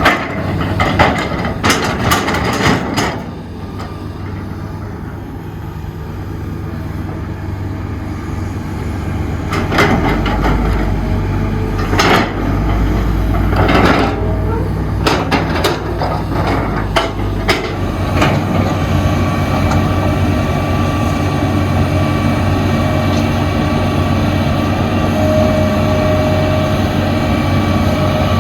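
Diesel engine of heavy construction machinery running steadily, with a series of sharp metal knocks and clanks in the first few seconds and again around the middle, then a steadier engine sound toward the end.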